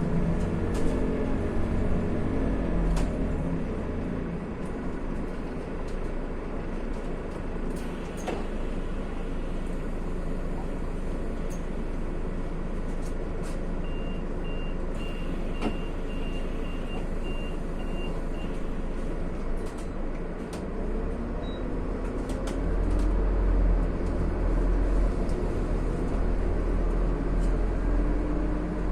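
Inside a Scania CN280UB city bus: a steady engine and cabin rumble, with a run of short evenly spaced beeps about halfway through. Near the end the engine grows louder as the bus pulls away.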